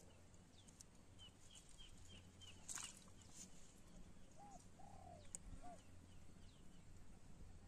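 Faint bird calls in near quiet: a quick run of about six short high chirps, then about two seconds later three short low calls.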